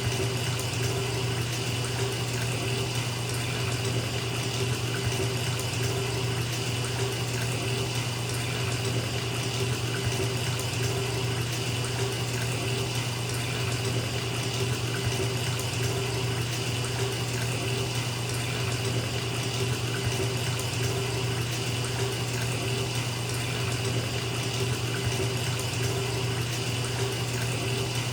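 Bathtub tap running full, water pouring steadily into a filling tub.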